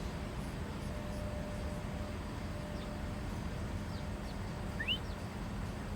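Steady low outdoor rumble with a few short bird chirps near the end, the clearest a quick rising note about five seconds in.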